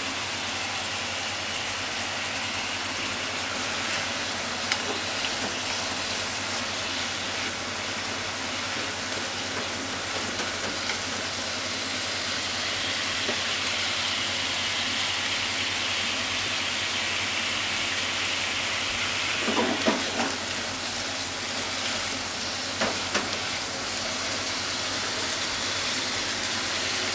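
Sliced pork and onions sizzling steadily in a frying pan in shogayaki ginger sauce. A few short knocks of a utensil against the pan come through, the loudest just past the middle and again a few seconds later.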